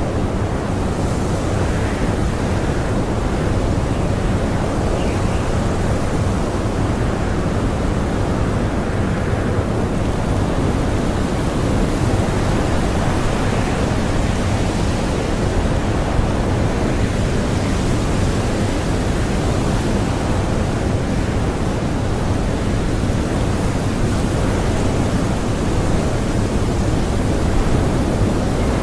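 Blizzard wind blowing as a steady dense rush, swelling and easing in slow gusts.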